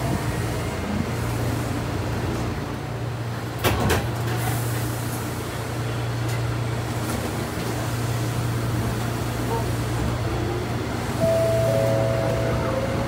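Running sound inside an Alpico Kotsu 3000-series electric train: a steady low hum, a single loud clunk about four seconds in, and near the end a whine that comes in and begins to rise in pitch.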